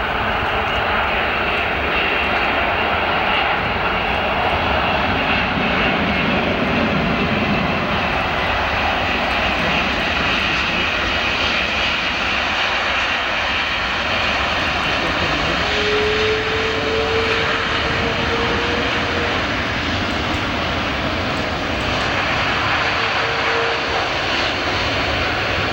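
A Boeing 747-400 jet airliner's engines running during its arrival, a loud, steady, continuous noise with a faint high whine. A short, slightly rising tone sounds about two-thirds of the way through.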